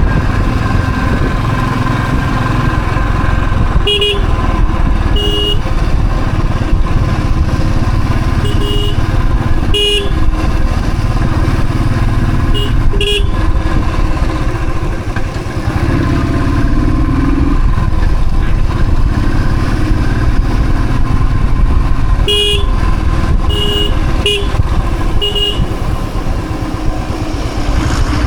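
A Thunderbird motorcycle's engine running steadily under way, with short horn toots going off in small groups about a dozen times, around 4, 9, 13 and 22 to 25 seconds in and near the end.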